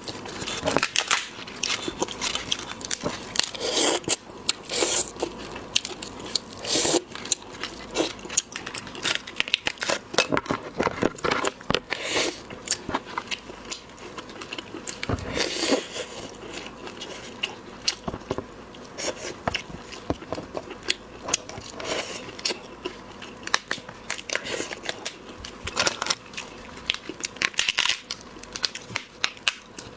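Shellfish shells being cracked, torn and peeled by hand, with biting and chewing: many short, irregular cracks and crackles.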